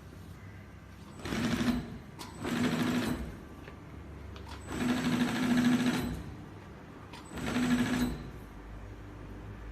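Industrial mattress tape edge sewing machine stitching in four short runs, each a rapid whirring stitch with a steady hum, starting and stopping with pauses between. The longest run is the third, about a second and a half.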